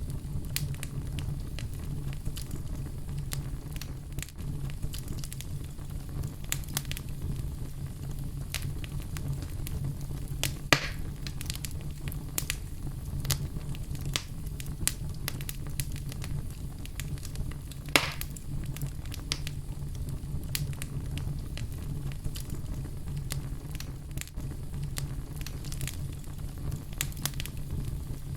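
Wood fire burning in a fireplace: a steady low rumble of flames with irregular crackles, and two louder pops, about eleven and eighteen seconds in.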